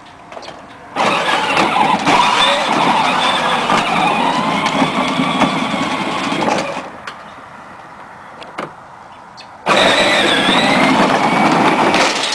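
Ride-on toy truck's electronic engine sound effect playing through its small speaker: it starts suddenly about a second in, stops near seven seconds, and starts again just under ten seconds.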